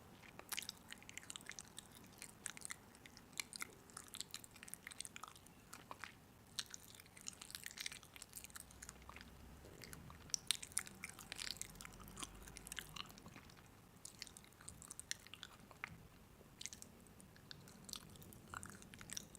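Crunchy food being bitten and chewed: a string of irregular crisp crunches, easing off briefly about three quarters of the way through.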